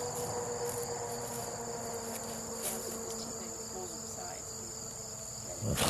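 Insects trilling steadily in one unbroken high-pitched tone, with a short loud rushing burst at the very end.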